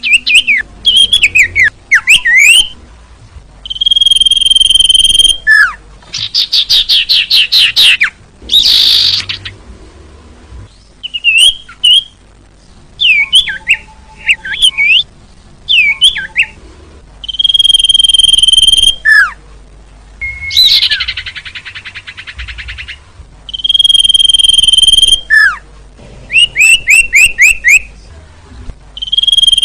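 Recorded calls of the sirtu, a small songbird: a loud, high, flat whistle held about a second and a half, repeating every several seconds, alternating with fast rattling trills and quick chirping phrases.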